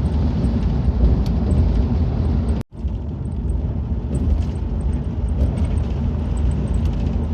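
Loud, steady low rumbling noise, broken off for an instant about two and a half seconds in.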